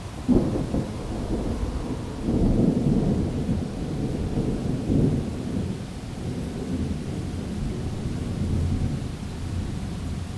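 A thunderclap about a third of a second in, followed by long rolling thunder that swells again a couple of times before slowly fading, over the steady hiss of heavy rain.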